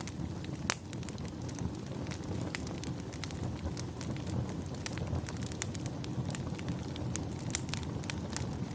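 Wood fire burning in a fireplace: a steady low rumble of flames with irregular sharp crackles and pops, a louder pop about a second in.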